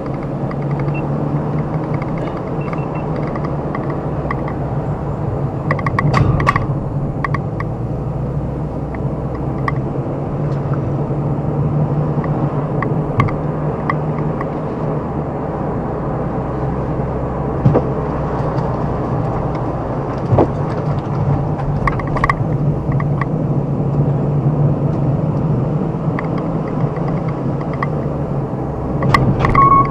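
Car driving steadily, a constant engine and road hum with scattered light clicks and knocks throughout.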